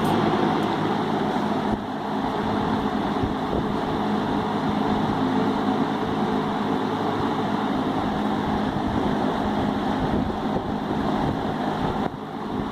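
1970s Champion box fan with a Westinghouse motor and three-rivet metal blade running on medium speed: a steady rush of air over a low motor hum, dipping briefly in level near the end.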